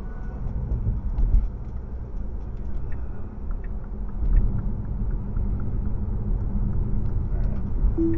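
Steady low rumble of road and engine noise from a car driving along.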